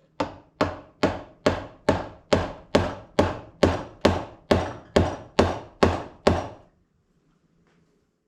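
About fifteen even hammer blows, a little over two a second, tapping the hydraulic cylinder's piston onto its rod, which is going on stiffly; the blows stop about two-thirds of the way in.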